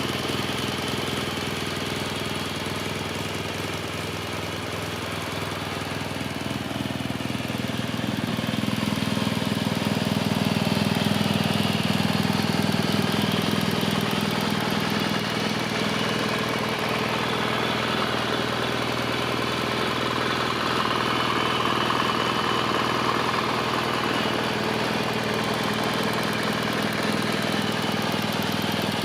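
BMW R1200 GS flat-twin boxer engine idling steadily, growing a little louder about eight seconds in.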